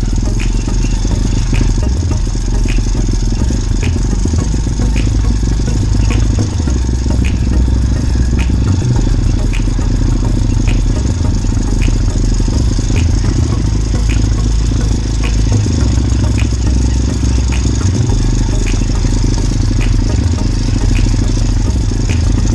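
Motorbike engine running steadily while riding, with a loud low rumble and a light tick repeating about every two-thirds of a second.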